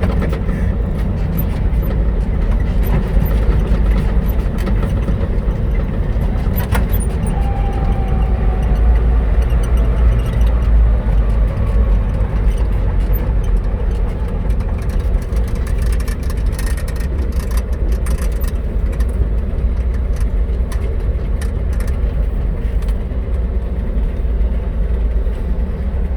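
A 1969 Chevrolet fire truck driving in high gear, heard from inside the cab: a steady low engine and road rumble with scattered light clicks and rattles.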